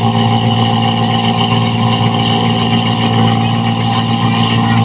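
New Holland 1545 rice combine harvester's diesel engine, with its loud aftermarket exhaust, running steadily at a constant pitch.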